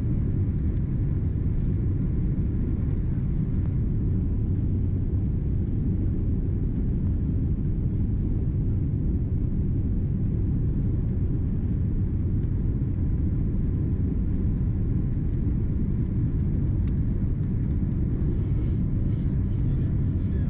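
Steady low rumble of airflow and engines heard from inside a Boeing 777-200ER's economy cabin during the approach and landing.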